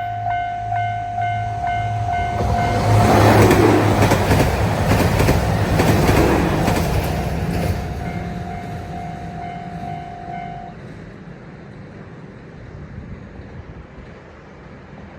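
Railway level-crossing alarm bell ringing about twice a second as a JR Hokkaido KiHa 261 series diesel train passes. The train's wheels clatter over the rail joints, with a low engine hum under them. The train noise peaks a few seconds in and then fades, and the bell stops about ten seconds in.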